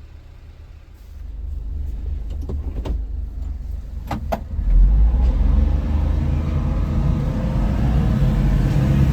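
Engine of a 1995 Honda Acty mini truck running, a low rumble with a few sharp clicks in the middle. It gets noticeably louder about five seconds in and stays loud.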